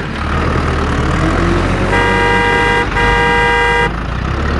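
A vehicle horn sounds twice, two steady blasts of about a second each, over the steady low rumble of a running engine.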